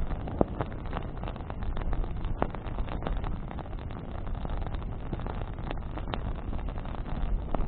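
Wood bonfire burning: a steady low rush of flames with frequent sharp crackles and pops, a few of them louder.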